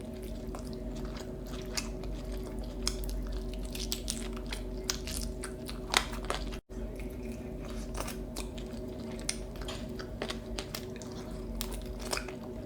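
Close-miked eating: a person chewing and biting food, with irregular crunches and wet mouth clicks over a steady low hum. The sound cuts out for an instant about halfway.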